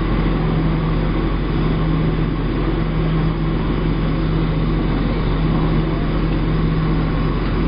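Steady cabin noise of a Boeing 737-700 in flight: the roar of airflow and its CFM56-7B engines, with a steady low hum running under it.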